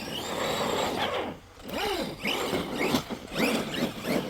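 Electric RC truck motor whining as it revs up and down repeatedly in quick bursts, with tyre and chassis noise on snow and ice.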